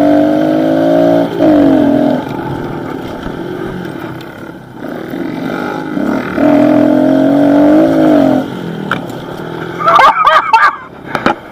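Pit bike engine revving hard on a dirt track. It holds high revs for about a second, drops off, then climbs and holds high again for about two seconds before easing off.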